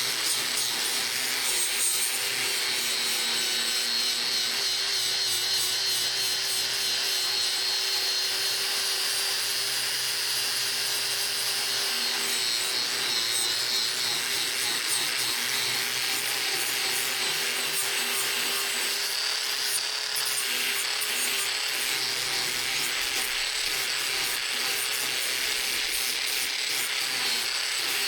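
An electric abrasive power tool running steadily, grinding against metal.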